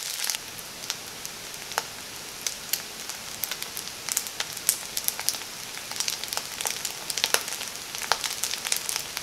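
Kimchi fried rice sizzling in a wok: a steady hiss of hot oil with many sharp little pops and crackles.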